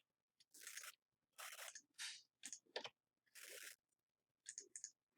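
Faint, short crunching noises, about one a second, with silence between them.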